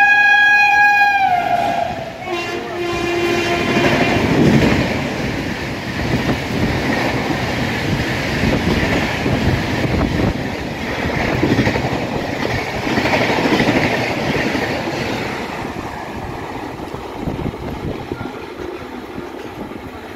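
Indian Railways WAP7 electric locomotive hauling an express through a station at full speed. Its horn sounds and falls in pitch as it ends about a second and a half in, followed by a short lower horn note. The coaches then rush past with rumbling, clattering wheels that fade away over the last few seconds.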